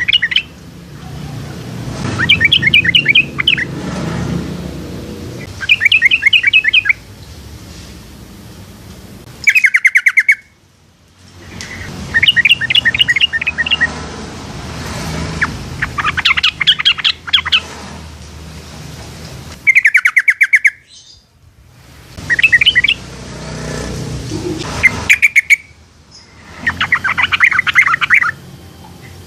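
Yellow-vented bulbul (Pycnonotus goiavier) singing: about ten short, bubbly phrases of rapid notes, one every two to three seconds, over a low background rumble.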